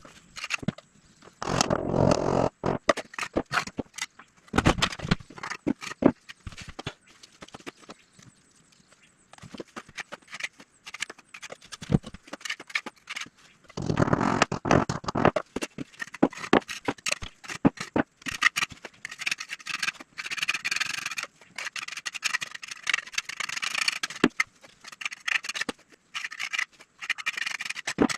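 Hand work on building materials: irregular clicks and taps, with repeated bursts of scraping.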